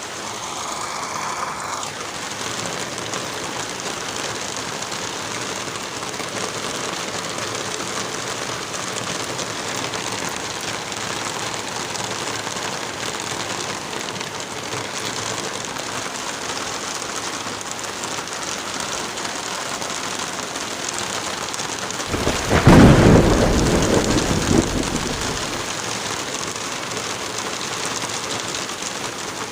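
Steady rain falling, with one loud rumbling thunderclap about three quarters of the way through that swells and dies away over a few seconds.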